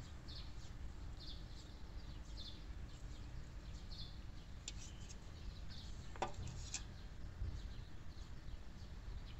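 Small birds chirping repeatedly in short high notes over a steady low background rumble, with a few sharp clicks around the middle.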